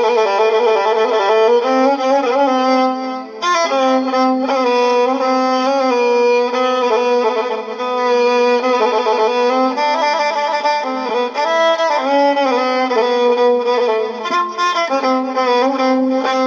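Solo violin playing a slow, ornamented melody with wavering, sliding notes: the instrumental lead-in to a southern Iraqi mohammadawi mawwal.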